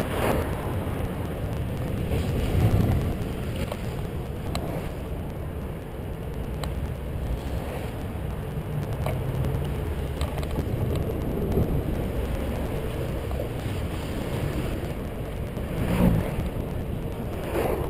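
Wind buffeting a bicycle rider's action-camera microphone, with road noise, as he cycles along a road. Two louder swells come through, about three seconds in and near the end.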